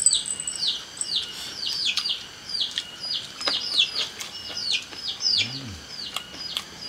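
Small birds chirping over and over: a steady run of short, high peeps that slide downward, two or three a second and often overlapping. A few sharp clicks are heard among them.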